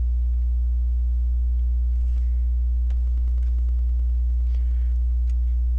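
Steady low electrical hum, with a few faint light clicks of plastic Lego pieces being handled partway through.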